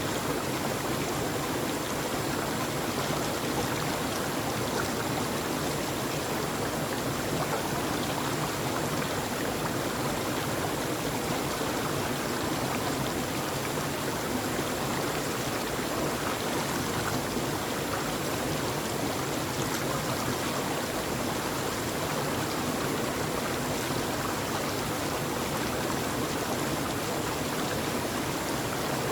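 Steady rushing of a flowing stream, an even water noise that never pauses or changes.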